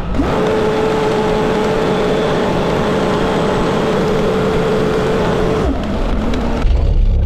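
A machine running loudly and steadily, a hiss with a steady whine through it, which drops away near the end into a low rumble.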